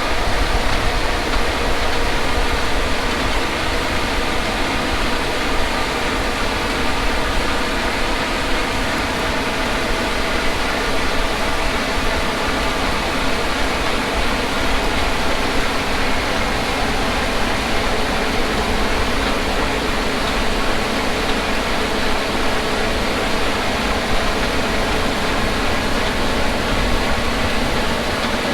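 Large farm diesel machinery running steadily: an engine drone with a hum of steady tones over a low rumble and a hiss.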